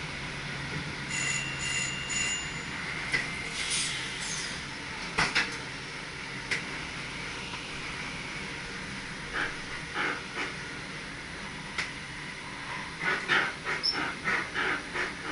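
Cab of an SGM Sprinter electric train under way: steady running noise with scattered sharp clicks and knocks from the wheels and track, and a brief thin electronic tone about a second in. Near the end comes a quick run of clacks, about three or four a second, as the wheels pass over rail joints or points.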